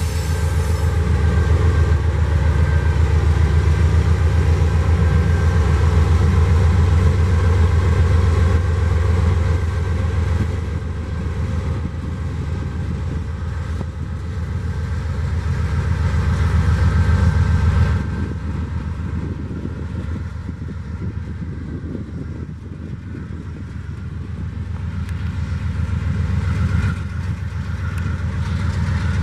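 Freight train rolling past, a heavy low rumble with a steady pulse that drops off about 18 seconds in and then builds a little again.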